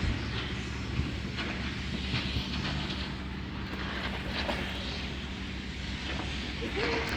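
Sailing yacht's inboard engine running steadily at a low drone, with a steady hiss over it and a few short knocks.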